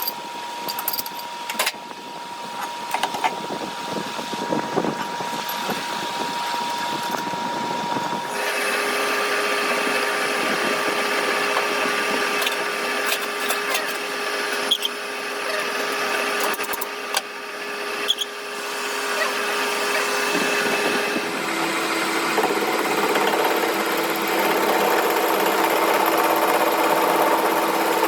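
Electric motor of a workshop power tool running steadily with a whine whose pitch drops about eight seconds in and again about seven seconds before the end.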